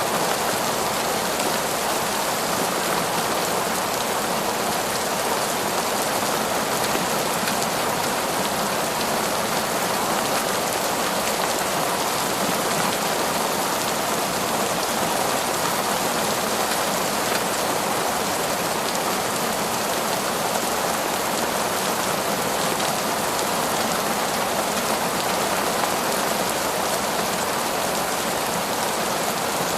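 Heavy, steady downpour of rain, an even dense hiss of drops falling on foliage and ground.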